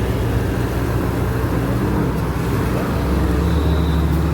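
Supercar engines idling with a steady, deep rumble; the low engine note shifts slightly about three seconds in.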